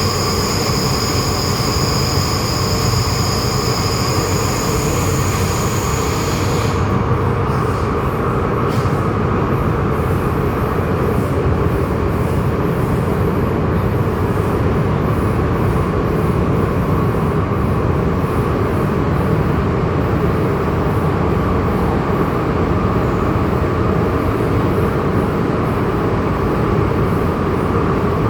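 MTR M-Train metro car running along the track, heard from inside the car: a steady rumble of wheels and motors. A high whine sits over it for the first six seconds or so and cuts off suddenly.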